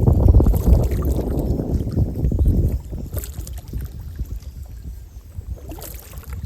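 Wind buffeting the microphone on an open lake, loud and rumbling for about the first three seconds, then easing to a softer hiss.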